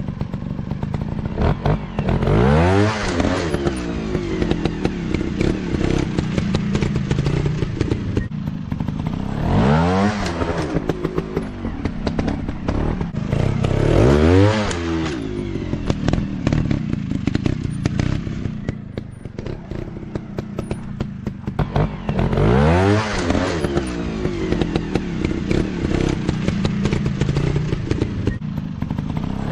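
Dirt bike engines running. Their pitch rises to a peak and falls back several times as the throttle is opened and closed, over a rattly mechanical noise.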